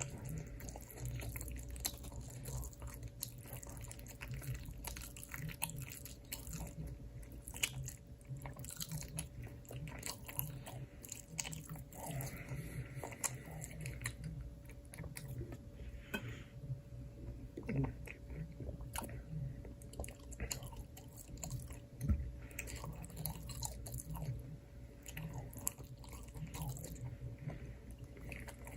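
Close-miked eating: a person biting and chewing food, with crunching and wet clicking mouth sounds in an irregular rhythm. A faint steady hum runs underneath.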